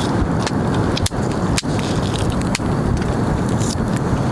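Strong wind buffeting the microphone: a loud, steady rumble with scattered small clicks and a few momentary dropouts.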